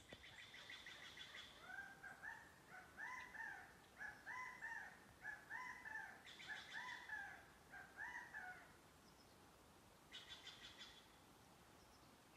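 Faint birds calling: a run of short arched calls, about two or three a second, for several seconds, with bouts of quicker, higher chattering at the start, around the middle and again near the end.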